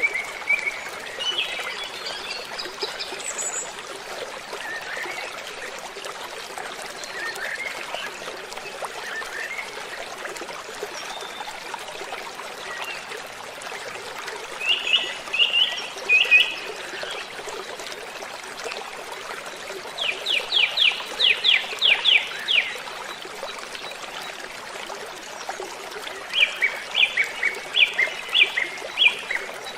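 Waterfall running steadily, with songbirds calling over it: short phrases about halfway through, a fast run of about eight repeated notes a little later, and another quick series of notes near the end.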